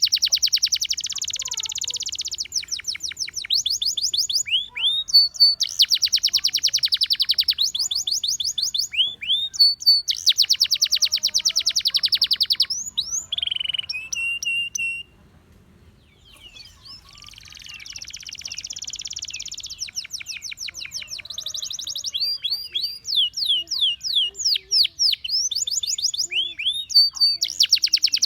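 Gloster canary singing: fast trills and rapid runs of repeated sweeping notes, with buzzy rolls in between. The song stops for about a second near the middle, then starts again.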